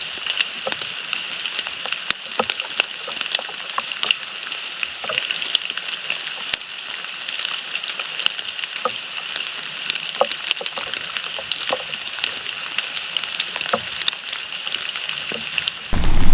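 Steady rain falling, with scattered drops ticking irregularly on nearby surfaces.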